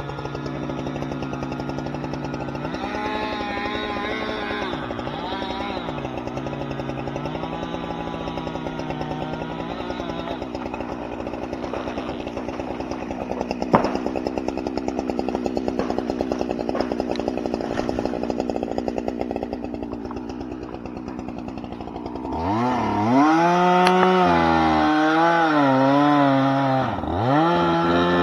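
A steady engine drone with a single sharp knock about halfway through, then a chainsaw comes in loud about 22 seconds in, revving hard with its pitch repeatedly dipping and recovering as it cuts into wood.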